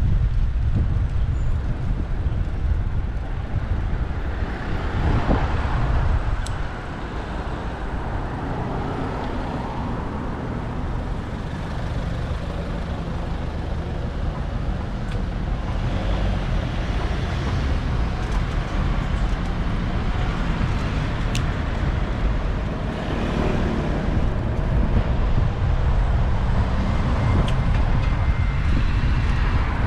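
Road traffic passing a moving bicycle, heard through a bike-mounted GoPro with a heavy, steady rumble of wind on its microphone.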